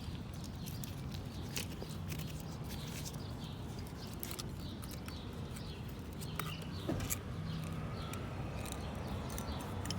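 Faint scattered metallic clicks of a thin steel feeler gauge and tools being worked into a valve clearance gap, over a low steady hum.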